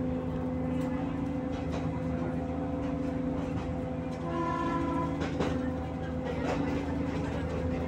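PNR commuter train running, heard from inside the passenger car: a steady hum and rumble with scattered knocks from the track. A brief pitched tone sounds just after four seconds in.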